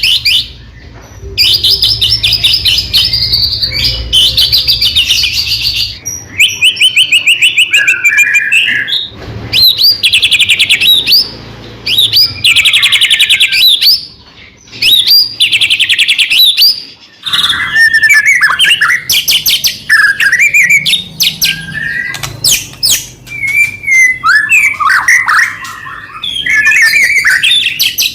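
White-rumped shama (murai batu) singing full song: bursts of fast, rapid trills and varied whistled phrases a second or two long, separated by short pauses.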